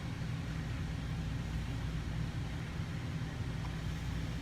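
A steady low background hum with a faint even hiss, unchanging throughout.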